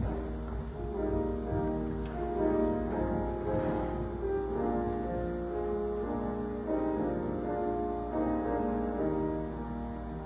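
Keyboard instrument playing a slow hymn tune in held chords.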